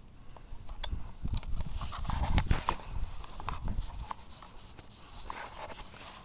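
Irregular knocks and clicks, thickest in the first half, over a low, uneven rumble of wind on the microphone.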